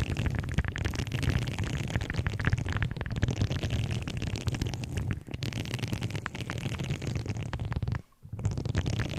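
Objects handled close to the microphone: a dense, irregular crackling and scratching over a low rumble, breaking off briefly about eight seconds in.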